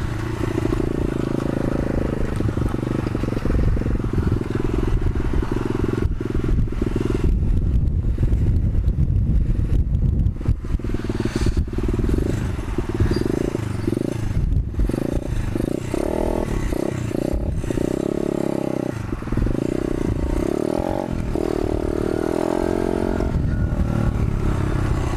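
125cc pit bike engine running as the bike is ridden, its note rising and falling again and again with the throttle in the second half.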